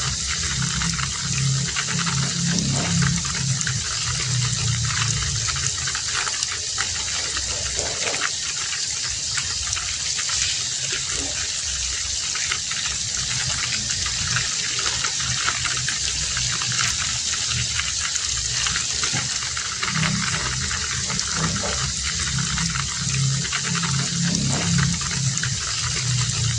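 Heavy rain falling steadily. A deeper rushing underneath swells at the start and again from about twenty seconds in.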